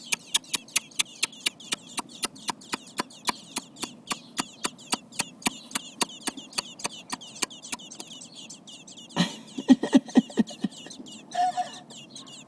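Rapid kissing, puckering lip smacks, about four a second, with robin nestlings' thin, high begging peeps between them as they gape for food. About nine seconds in the smacks stop and a brief flurry of lower sounds follows.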